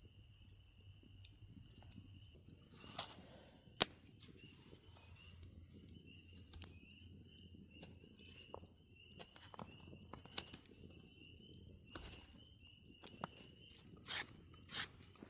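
Scattered sharp cracks and clicks, a few of them louder, about 3 and 4 seconds in and twice near the end, over a steady high-pitched hum that wavers slightly.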